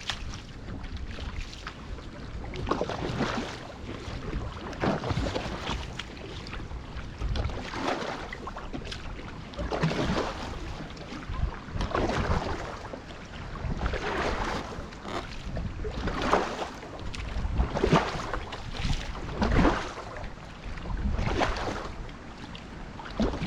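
Single-blade paddle strokes dipping and pulling through lake water, one about every two seconds, over wind rumbling on the microphone.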